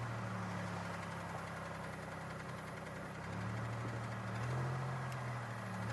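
2002 Chevy Malibu's V6 engine idling steadily while warming up after sitting unused for a month or two. A low, even hum that swells slightly a couple of times in the second half.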